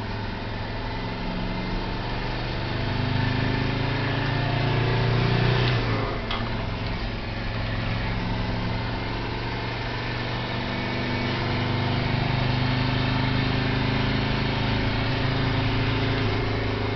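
Mercedes-Benz turbo diesel engine pulling hard under load as turbo boost builds, with propane being fed in. Engine speed climbs, drops sharply about six seconds in, then climbs again and holds. The boost runs a little high on this pull.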